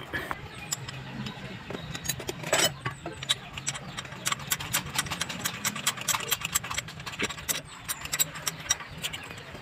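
Metal hand tools clicking and tapping, several small clicks a second, while a new pressure relief valve is fitted to the diesel common rail. A faint low steady hum runs underneath.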